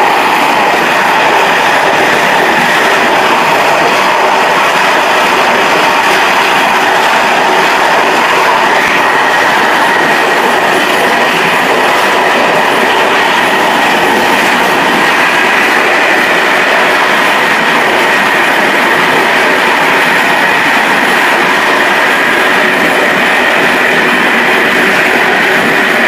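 Passenger train running at speed, heard from the rear of its last coach: a steady, loud rolling noise of wheels on the track. A faint steady tone runs through it and sits higher from about a third of the way through.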